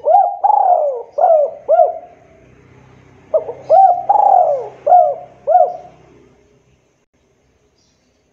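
Spotted dove (tekukur) cooing: two phrases of about four rising-and-falling coos each, the second phrase starting about three seconds after the first.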